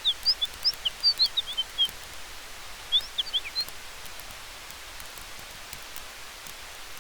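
Campfire and forest-wind ambience: a steady hiss with faint crackling ticks from the fire. Over it, two quick flurries of short, high chirps, a dozen or so in the first two seconds and a few more about three seconds in, are the loudest sounds.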